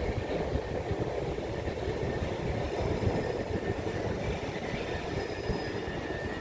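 Electric train running through the station: a steady low rumble, with a faint high whine coming in near the end.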